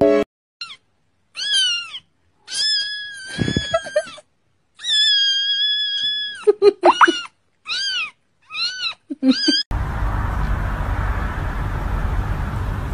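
A cat meowing repeatedly, about eight high meows, some short and two long and drawn out. The meows stop a few seconds before the end, leaving a steady hiss of background noise.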